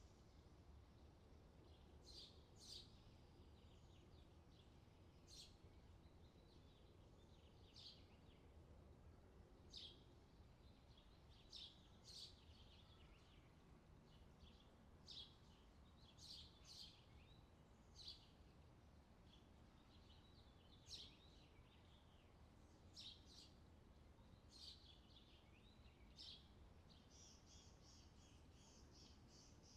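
Faint outdoor summer ambience of wild birds chirping: short high calls every second or two over a low steady hiss, with a faster run of high repeated notes near the end.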